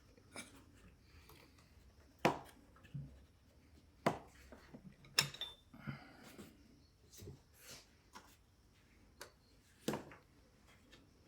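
Metal hand tools being handled: four sharp clinks a second or more apart, with lighter clicks and rubbing between.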